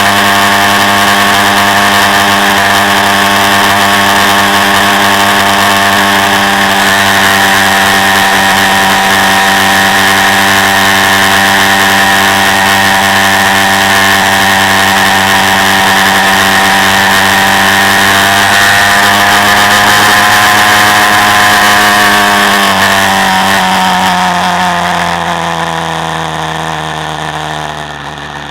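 Quad bike engine heard from on board, holding a steady speed for most of the time, then easing off near the end as its pitch and loudness fall away.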